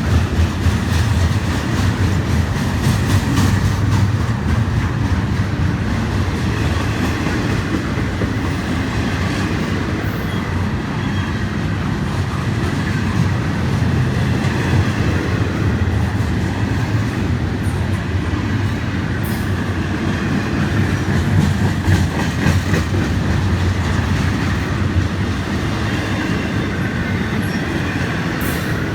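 Florida East Coast Railway freight train of double-stack container well cars rolling steadily past: a continuous rumble of steel wheels on rail, with scattered clicks as the wheels cross the rail joints.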